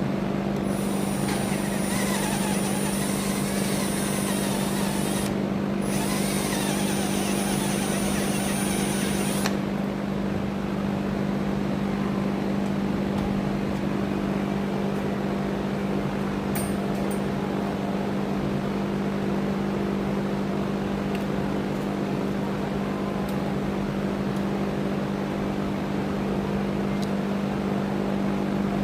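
Milwaukee cordless drill running with a 9/32 bit, opening up a hole that was too tight. It runs in two spells of about four seconds each with a brief stop between, then stops about a third of the way in. A steady low hum continues throughout.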